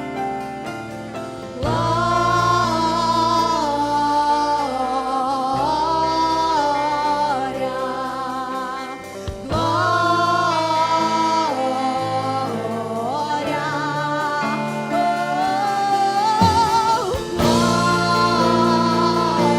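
Christian worship song: a singer holding long notes with vibrato over sustained band accompaniment, with new sung phrases starting about two seconds in, near ten seconds and near seventeen seconds.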